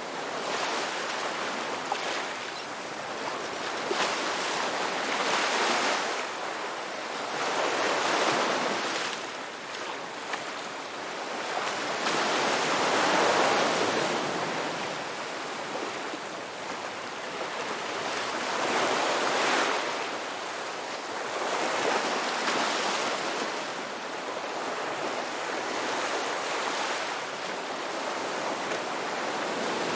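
Sea waves breaking on a shore: a continuous hiss of surf that swells and eases every few seconds as each wave comes in and washes back.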